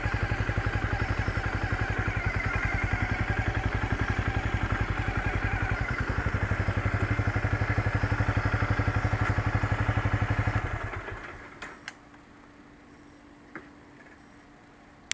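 Motorcycle engine idling with an even, pulsing beat, then switched off about eleven seconds in and dying away; afterwards only a faint steady hum and a few light clicks remain.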